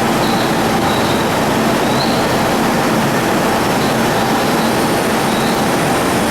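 Sotetsu 8000 series ten-car electric train running into the station, a steady loud rumble of wheels on rail with a few brief high squeaks.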